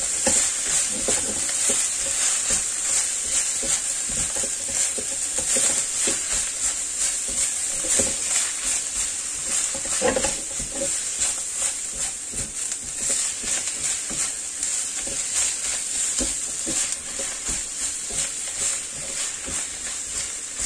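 Minced pork and chopped preserved vegetables sizzling in a nonstick wok with a steady high hiss, while an orange silicone spatula stirs and scrapes them around the pan with irregular soft knocks.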